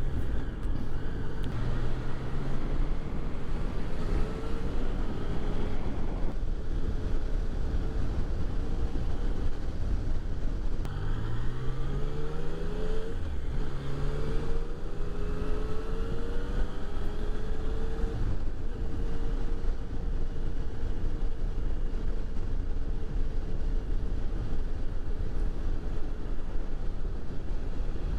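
Yamaha motorcycle engine running under a steady rumble of wind noise on the rider's camera. About eleven seconds in, the engine pitch rises several times as the bike accelerates up through the gears, then it settles to an even cruise.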